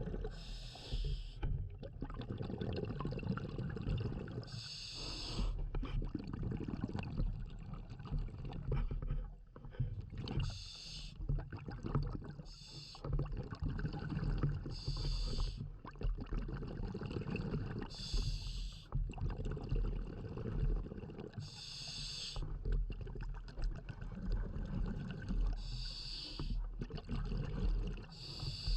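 Scuba diver breathing underwater through a regulator: about eight bursts of exhaled bubbles, one every three to four seconds, over a steady low rumble.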